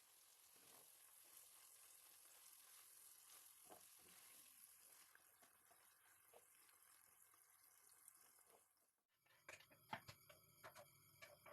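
Faint sizzling of food frying in a pan: a steady hiss with a few soft ticks. It breaks off after about nine seconds and gives way to several sharp clicks and knocks.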